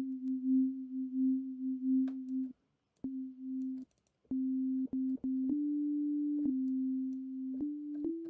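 Arturia Pigments software synthesizer's wavetable oscillator on a basic default patch, set to classic detuned unison. It holds one plain note that pulses with a regular wobble, then plays a few shorter notes and held notes, each starting with a small click, stepping up in pitch near the end.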